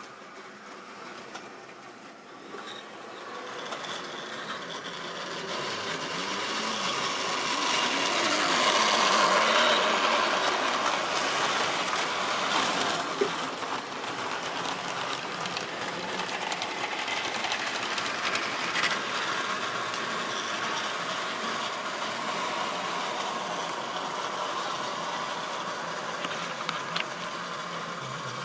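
Model railway train (Tri-ang or Lima rolling stock) running along the track. Its running noise grows louder over the first ten seconds or so, peaks, then continues more steadily.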